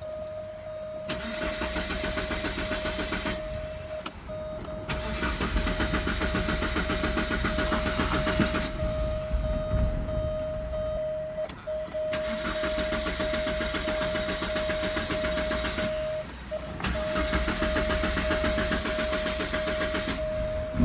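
1988 Porsche 944's starter cranking the engine in four separate bursts of a few seconds each, with a rapid even pulsing, and the engine never catches: a hard-start / no-start condition. A steady high-pitched tone runs underneath throughout.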